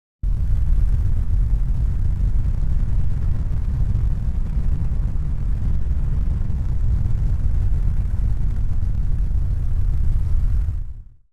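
A steady deep rumble with no distinct events. It cuts in abruptly just after the start and fades out to silence near the end.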